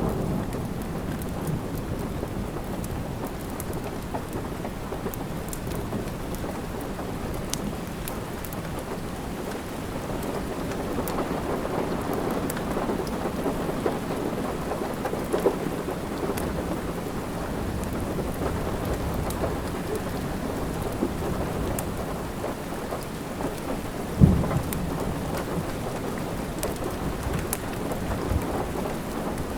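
Steady rain with a low rumble underneath, and the scattered sharp crackles of a wood fire burning in a fireplace. One louder pop comes about four-fifths of the way through.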